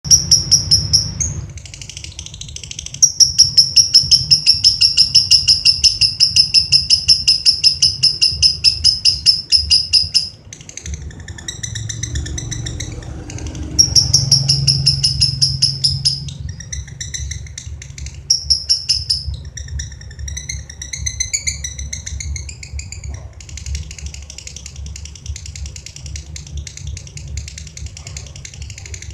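Lovebird singing: a long run of rapid, evenly repeated high chirps lasting about seven seconds, a shorter run a few seconds later, then broken chirping phrases. A steady low hum runs underneath.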